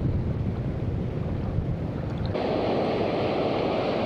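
Wind buffeting the microphone over waves washing on the shore. About two and a half seconds in, the sound switches abruptly to a brighter, steady hiss of surf.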